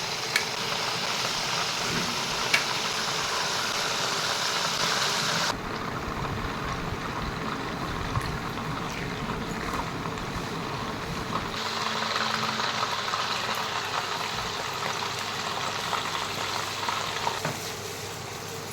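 Food frying and sizzling in hot oil in a cooking pan, with a few sharp clicks like a spoon against the pan. The sizzle changes abruptly twice.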